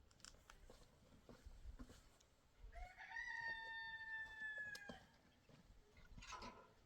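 A rooster crowing once, faintly: one long call of about two seconds near the middle, with a few faint clicks around it.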